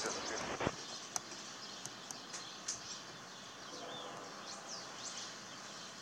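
Faint steady background noise with birds chirping briefly now and then, and a few light clicks.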